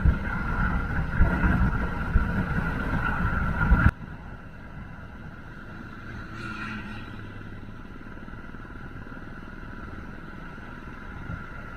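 Motorcycle riding noise, engine and wind on the microphone, for about four seconds, then an abrupt cut to a much quieter steady hum.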